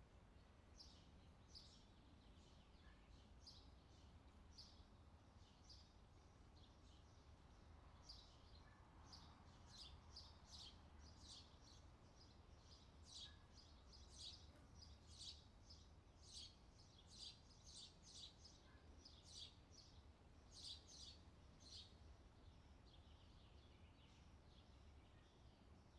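Faint outdoor summer ambience of small birds chirping in short, quick repeated notes that grow busier after the first third, over a low steady rumble.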